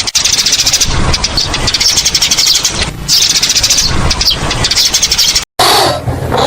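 Many small birds chirping at once in a dense, rapid, high-pitched chorus. It cuts off abruptly about five and a half seconds in and is replaced by a lower animal call.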